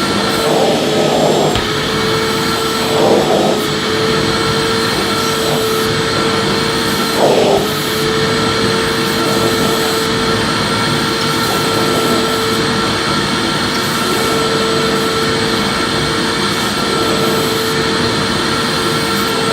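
Electric vacuum cleaner running steadily: a constant motor whine over airflow noise, with three brief swells in the first eight seconds.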